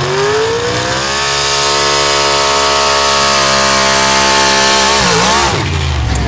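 Pulling truck's engine at full throttle under the weight of a pulling sled: it climbs in pitch over the first second and holds at high revs, then about five seconds in the revs waver and drop away.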